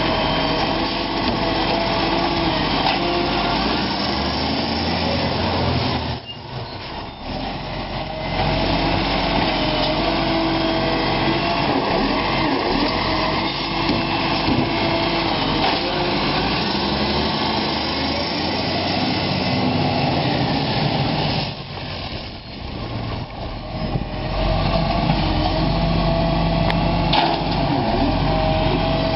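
Iveco Acco garbage truck running steadily with a steady whine, dropping twice to a much quieter level for a couple of seconds before picking up again.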